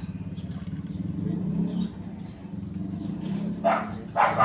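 A low, steady machine hum with a fine rapid pulse. Two short clattering knocks come near the end.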